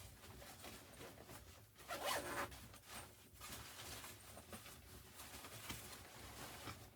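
A zipper being pulled in several short strokes, the longest and loudest about two seconds in.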